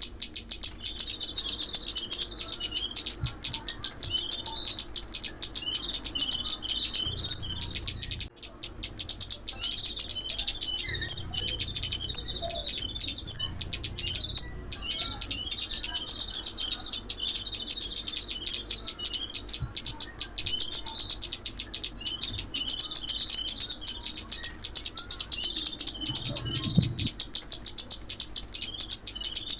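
Recorded song of the chim ốc mít, a small songbird used as a trapping lure: rapid, high twittering chirps in long run-on phrases, with brief breaks about a third and half-way through.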